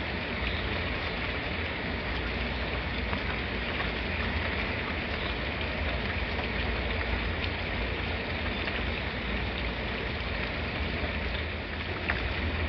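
Steady rainfall, an even hiss of rain with a low rumble beneath and scattered individual drop ticks, a few of them louder near the end.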